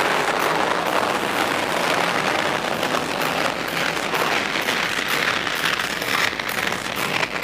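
Large crowd applauding steadily, a dense patter of clapping.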